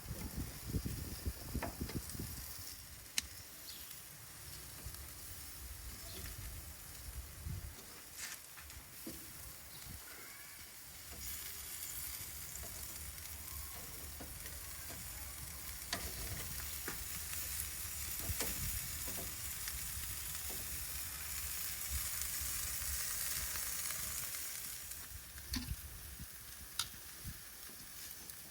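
Shrimp in soy marinade sizzling on a grill, with scattered sharp clicks. The sizzling grows louder about a third of the way in and dies down near the end.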